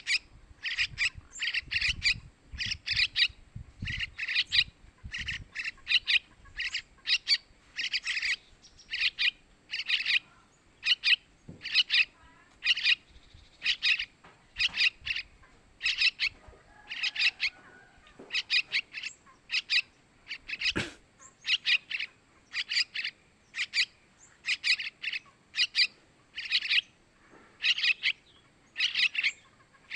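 Yellow-vented bulbul (trucukan) chick calling over and over: short, sharp calls, about one or two a second, often in quick pairs or clusters.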